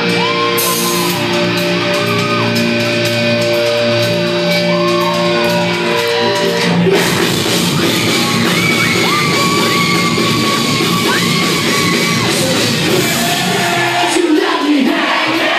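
Live rock band playing loudly with sung and shouted vocals, echoing in a large hall. The bass drops out near the end.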